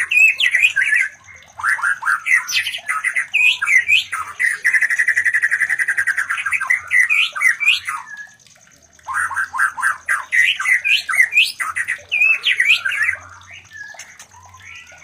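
White-rumped shamas calling during mating: fast runs of varied whistled and chattering notes, with a rapid trill about five seconds in and a short break in the middle. The calling stops about two seconds before the end.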